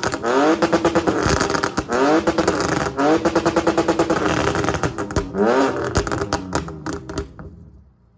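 BMW 3.0-litre inline-six with headers and a muffler delete, revved hard again and again in quick rising sweeps, with sharp crackles and pops between the revs. It dies away near the end.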